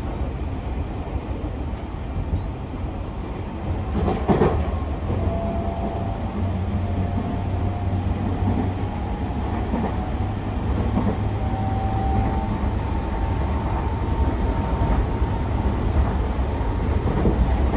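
Tobu 60000 series electric train running, heard from inside the car: a steady low rumble of wheels on rail, with a faint whine from its Hitachi IGBT inverter drive that climbs slowly in pitch. A short clatter about four seconds in.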